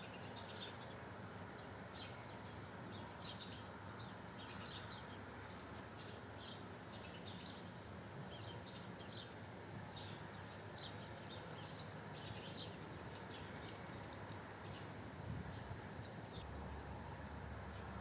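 Small songbirds chirping: many short, quick chirps from several birds, close together and overlapping, over a steady background hiss.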